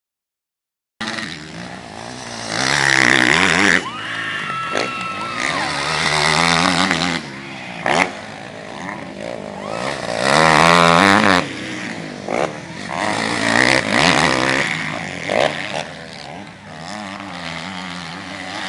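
Motocross motorcycle engines racing, starting about a second in and revving up and down repeatedly as the bikes accelerate and pass.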